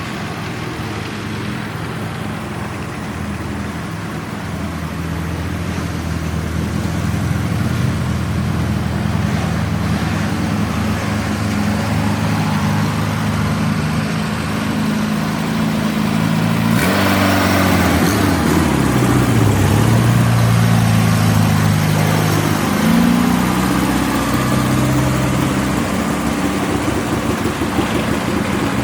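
Classic car engines running at idle. About 17 seconds in, a louder engine comes in and its pitch dips and rises again as it is revved.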